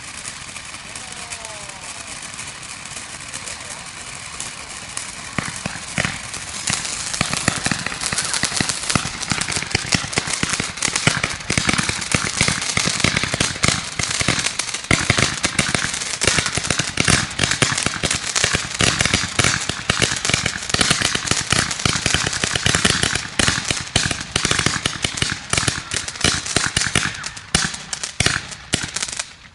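Firecrackers going off in a long, rapid crackling run of many small bangs a second, after a few seconds of steady fizzing; the cracks stop suddenly near the end.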